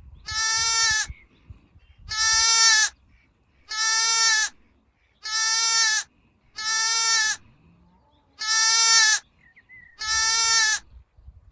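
Lamb bleating seven times, short steady-pitched calls of about a second each, evenly spaced and all alike.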